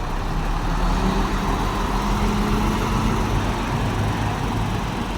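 A MAN truck's engine running steadily, a low rumble with a hum that rises slightly in pitch about a second in.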